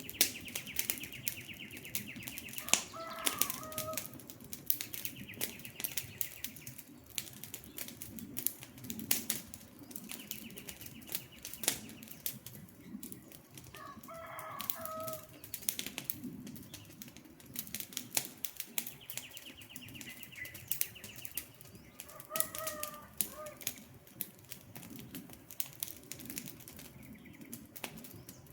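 Wood campfire crackling and popping with irregular sharp snaps. Three times, a short pitched bird call sounds, and a high trilling buzz lasting a second or two recurs about every ten seconds.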